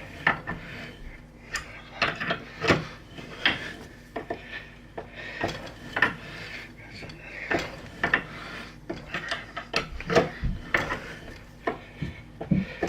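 Irregular metallic clicks, knocks and scraping as a pipe-thread tap is worked by hand in an aluminum petcock adapter and the threads are checked for depth.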